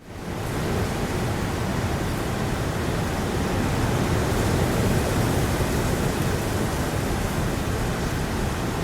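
Heavy rain falling with a blustery wind, fading in over the first second and then a steady dense rush.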